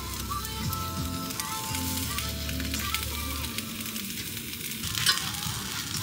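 Sliced sausages sizzling as they fry in a hot pan, with a few light clicks near the end.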